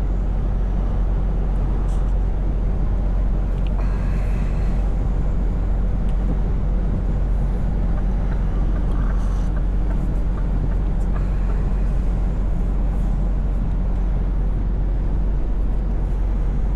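Scania V8 truck engine running steadily under way, a constant low drone with road noise, holding the same pitch and level throughout.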